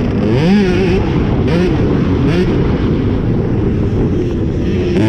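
Cobra 65cc two-stroke motocross bike revving hard. The engine pitch rises and falls several times in quick succession as the throttle is worked, then holds steadier later on.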